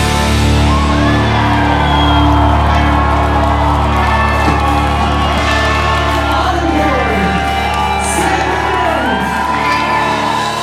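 Rock band instrumental break: a lead line that slides and bends up and down in pitch over a held low bass note.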